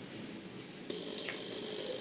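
Close-miked chewing of fried chicken wings: wet mouth sounds with a faint click or two.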